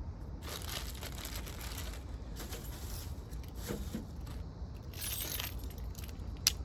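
Potatoes being handled and sorted in a plastic bag: several short bursts of bag rustling, with a sharp click near the end.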